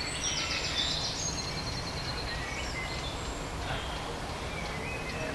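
Garden birds singing: a quick trill of rapidly repeated high notes in the first second or so, then scattered fainter chirps, over a steady low background rumble.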